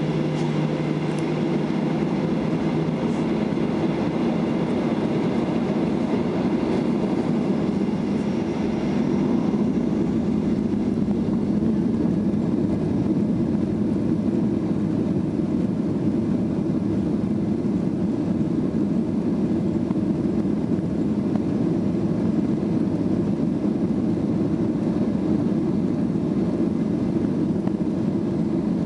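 Boeing 737-800's CFM56-7B engines at takeoff thrust, heard from inside the cabin as a steady roar. A fainter whine fades out over the first several seconds.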